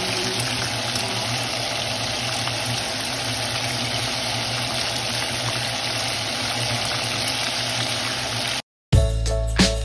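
Coated chicken drumsticks frying in a pan of hot oil: a steady sizzle with fine crackles. It cuts off suddenly near the end, and music starts.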